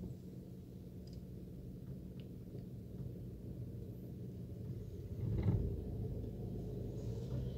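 Car engine running steadily at low revs, heard from inside the cabin as a low hum. About five and a half seconds in, a brief louder sound rises over it.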